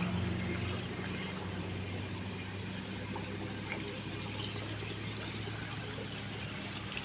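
Water trickling and running steadily. A low hum fades out in the first second.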